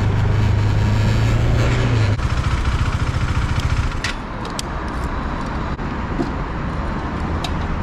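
KTM RC390's single-cylinder engine running at a steady note, which breaks up after about two seconds and drops to a quieter, rougher low running from about four seconds in, with a few short clicks.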